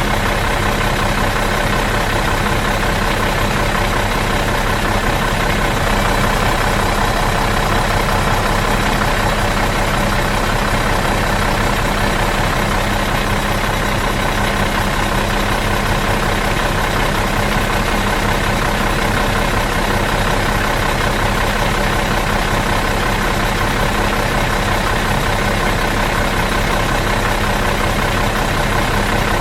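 Bus engine idling in neutral, a steady even drone that does not change.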